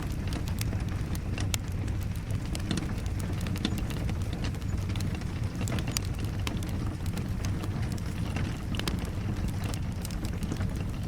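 Fire crackling in a fireplace, with frequent irregular pops, over steady rain.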